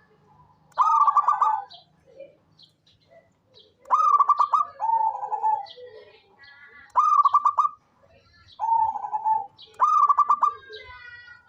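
Zebra dove (perkutut) cooing: about five bursts of quick, stuttering coos, each a run of rapid notes, some followed by a lower rolling note. Faint high chirps sound between the bursts.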